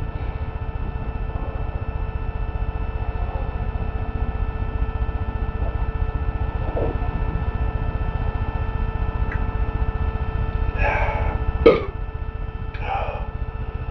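A man clears his throat and coughs in a few short bursts near the end, the sharpest one just before the close, over a steady low rumble and hum.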